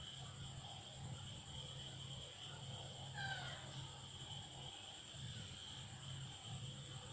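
Insects such as crickets trilling steadily and faintly over a low, pulsing hum, with one short gliding pitched call about three seconds in.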